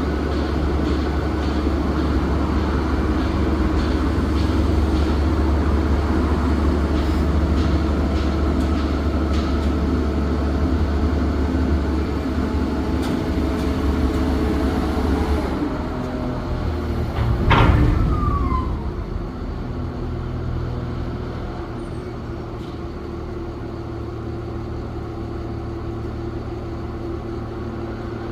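Heavy diesel engine of a 250-tonne hydraulic truck crane running steadily. About 15 seconds in its note drops; a short loud burst of noise comes a couple of seconds later, and then the engine settles to a quieter low hum.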